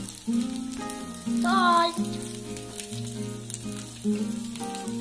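Cubes of idli sizzling as they fry in a nonstick pan, with faint crackling, under background music of held, shifting notes.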